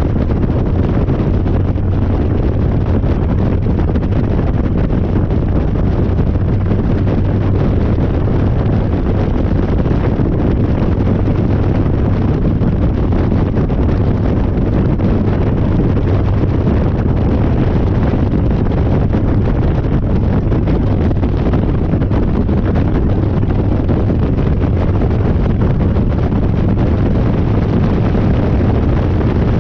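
Harley-Davidson Dyna's V-twin engine running steadily under way, with heavy wind buffeting on the microphone.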